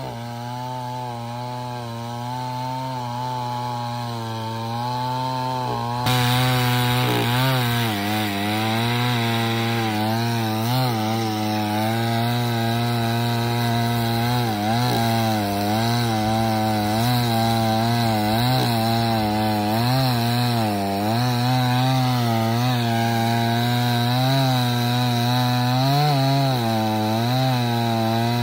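Chainsaw running while cutting wood, its engine pitch wavering as the load changes. The sound gets louder and harsher about six seconds in.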